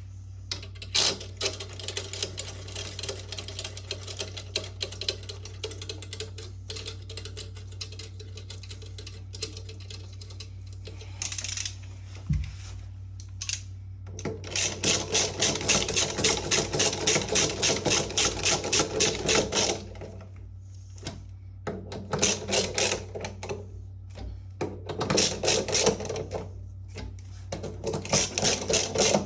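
Rapid, evenly spaced mechanical clicking in bursts, about four clicks a second, the longest burst lasting about five seconds midway and shorter bursts near the end, over a steady low hum.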